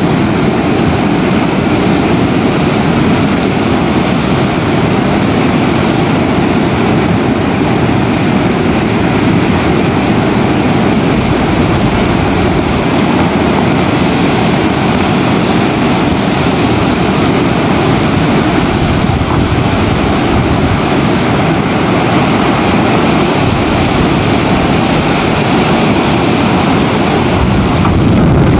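Very strong storm wind blowing over the nest camera's microphone: a loud, steady roar of wind noise that grows slightly louder near the end.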